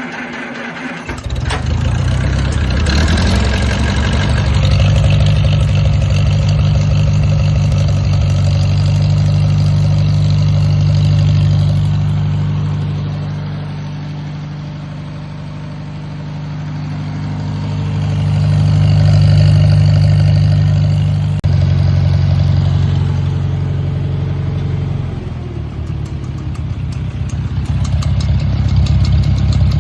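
A 1948 Farmall Cub's four-cylinder flathead engine catching on a cold start about a second in and then running steadily, its loudness swelling and falling back several times.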